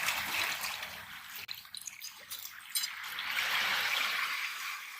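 Seawater trickling and sloshing among reef rocks, with a few small clicks.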